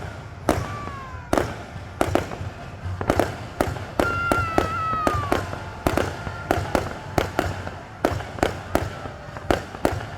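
Fireworks going off in a rapid string of sharp cracks and pops. About four seconds in, a high whistling tone with overtones slides slowly down in pitch for about a second.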